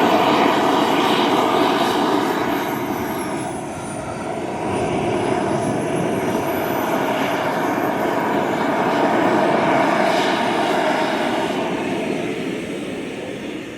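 Radio-controlled model turbine jet engine running. Its high whine rises and falls in pitch as the jet passes, and it fades near the end.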